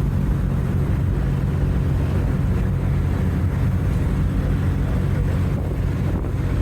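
2002 Ford pickup with a V6 running steadily at speed: a constant low engine drone mixed with road and wind noise.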